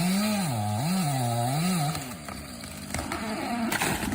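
Chainsaw engine revved hard, its pitch swinging up and down three times as the throttle is worked, then dropping back after about two seconds, with a few sharp knocks near the end.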